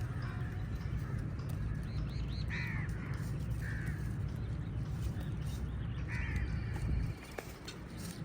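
Crows cawing, three short harsh caws a second or more apart, with a few high chirps among them, over a steady low rumble that falls away about seven seconds in.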